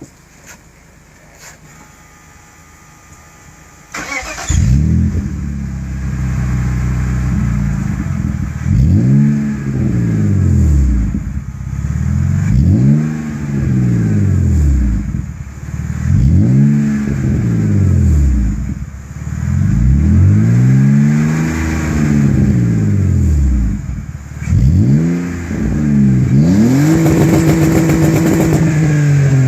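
BMW E46 323Ci's 2.5-litre straight-six starts about four seconds in. It then runs through the aftermarket exhaust with the middle silencer cut out and is revved again and again in short blips, each rising and falling back to idle. Near the end the revs are held up for a couple of seconds.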